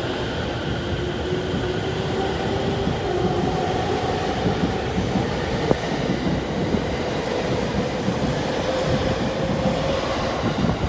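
E231-500 series electric train pulling away, its traction motor and inverter whine slowly rising in pitch as it gathers speed, over wheel-on-rail noise with a few clicks.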